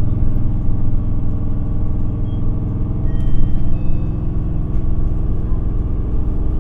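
Isuzu Erga city bus's diesel engine running at a steady speed, a drone heard from inside the passenger cabin.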